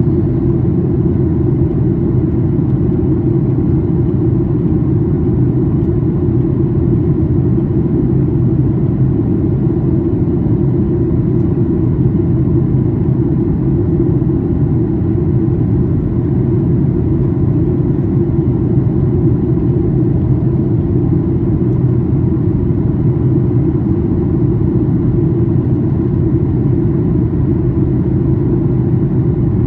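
Steady cabin noise inside a Boeing 737-800 airliner during descent: an even, low rumble of the CFM56 jet engines and airflow past the fuselage, with a faint steady hum above it.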